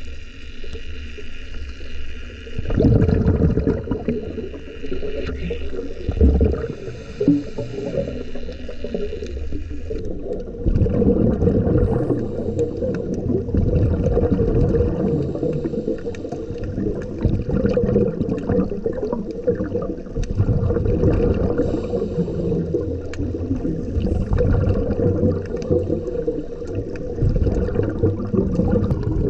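Underwater recording: muffled rushing water noise with gurgling and crackling, the sound changing and growing louder about 2.5 s in and again about 10 s in.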